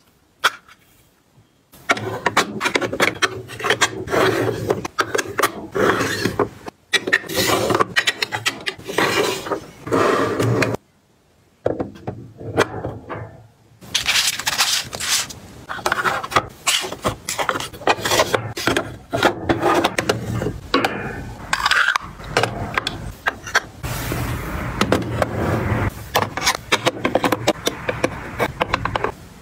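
Household items being handled and set down while organizing: a dense run of clicks, knocks and scraping, broken by brief silent gaps near the start and about eleven seconds in.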